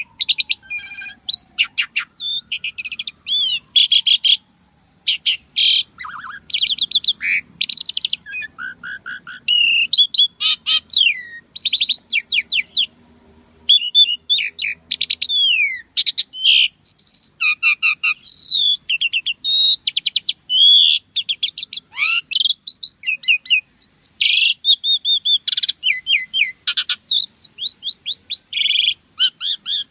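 Jalak suren (pied starling) singing a long, busy song: fast chattering clicks, rising and falling whistles and quick trills, one varied phrase after another with hardly a pause.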